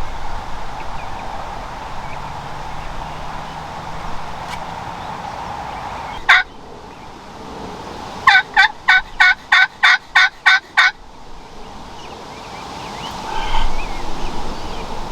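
Turkey calling: one sharp note, then about two seconds later a run of about nine evenly spaced yelps over nearly three seconds.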